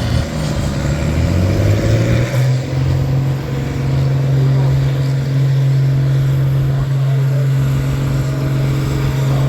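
Pulling tractor's engine revving up over the first two to three seconds, then held flat out at a steady high pitch.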